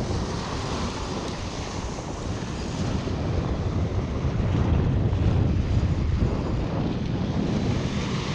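Wind buffeting the microphone, a rumbling rush that swells about halfway through, over the wash of choppy river water.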